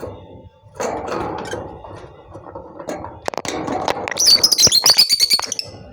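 Lovebirds chirping: a fast run of high-pitched chirps in the second half, loudest near the end, with scattered clicks just before.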